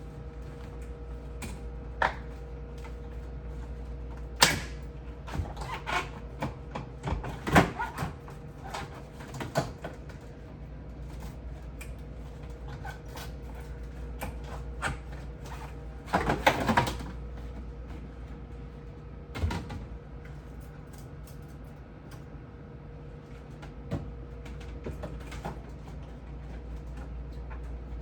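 Scattered knocks and clatter of refrigerator shelves, drawers and items being handled while the fridge is cleaned, with a short burst of clattering about two-thirds of the way in, over a steady low hum.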